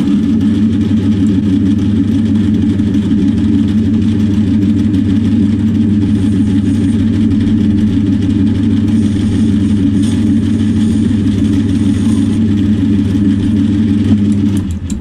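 Metal lathe running steadily under power while facing a brass workpiece. The hum drops away shortly before the end.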